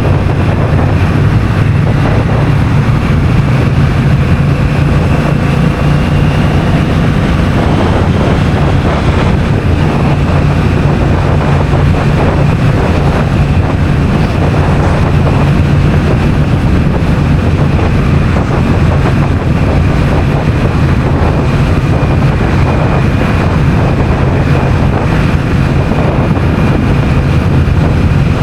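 Honda CMX1100 Rebel's parallel-twin engine running at a steady pace on the move, with wind rushing over the microphone.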